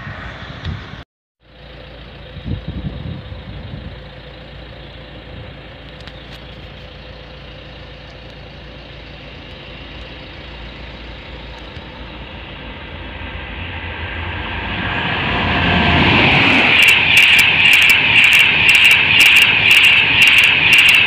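An electric express passenger train approaching and then passing at speed close by, its noise growing over several seconds into a loud, sustained rushing of wheels on rail, with a rapid run of sharp clicks as it goes by. Before that, the tail of an earlier passing train cuts off about a second in, leaving a steady low background.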